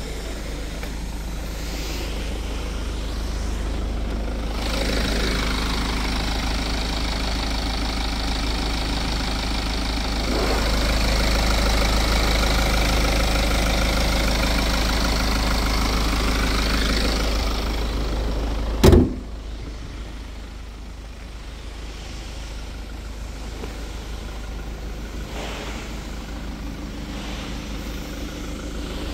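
BMW 118d's four-cylinder diesel engine idling steadily, an idle the owner rates as good. The engine is louder through the middle stretch. A single loud thump comes about two-thirds of the way in, and the idle sounds quieter after it.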